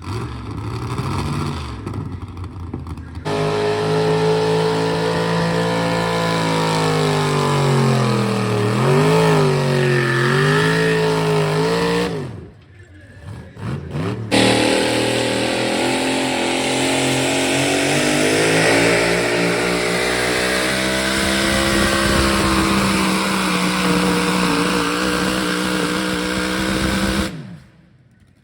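A pulling vehicle's engine running hard under load at a truck pull, its pitch wavering up and down. It breaks off briefly about twelve seconds in, comes back, and cuts off suddenly near the end.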